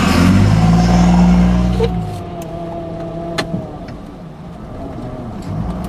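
A motor vehicle's engine running loudly for about two seconds, then dropping away suddenly, leaving quieter steady vehicle noise with a few sharp clicks.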